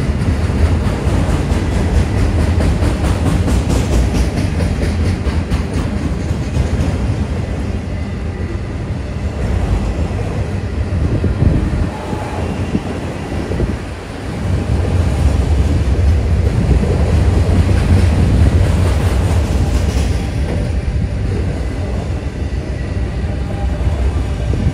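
Autorack freight cars rolling past loudly at trackside: a steady rumble of steel wheels on rail that dips briefly twice about halfway through.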